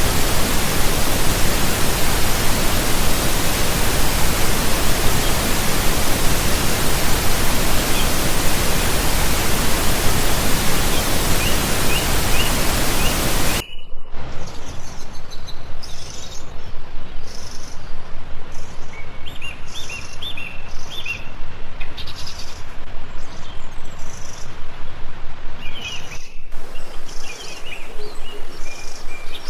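Rushing river water, a steady loud hiss, with a few faint bird chirps. About halfway through it cuts abruptly to a softer, lower water sound with birds chirping repeatedly, and it cuts again near the end.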